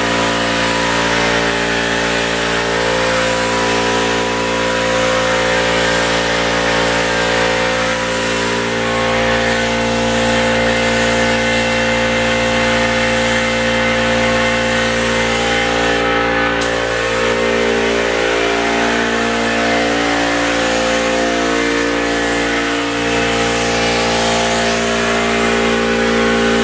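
Air compressor running steadily under the hiss of a paint spray gun.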